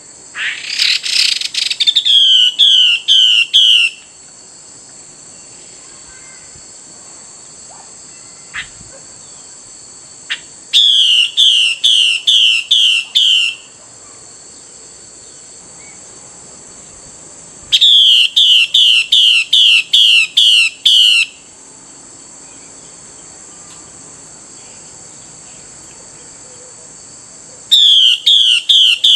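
Female Chinese hwamei (Garrulax canorus) calling. Each bout is a run of repeated down-slurred whistled notes, about three a second, lasting two to four seconds, and the bouts are separated by pauses of six or seven seconds. A brief raspy burst comes about a second in, and a steady high-pitched hiss runs underneath.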